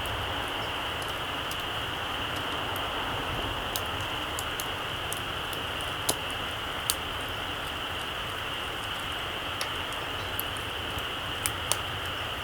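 Small wood campfire burning low: a steady hiss with sparse, irregular crackles and pops, the sharpest two about six and seven seconds in.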